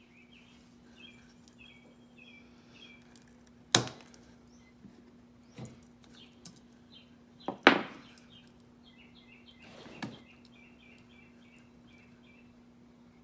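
A few sharp knocks of hard objects being set down or handled, the loudest about four and eight seconds in, over a faint steady hum. Small birds chirp in quick runs near the start and again in the second half.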